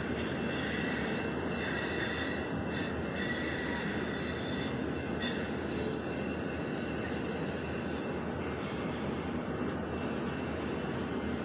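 Train rolling past with a steady rumble, and faint high wheel squeals in the first half that fade out.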